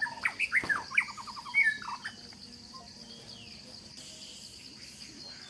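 A bird singing a quick run of sweeping notes that stops about two seconds in, over a steady, high-pitched insect drone.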